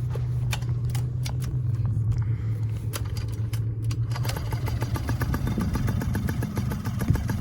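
Small kids' dirt-bike engine running steadily with a low hum. About four seconds in, a quick, even mechanical clatter joins it.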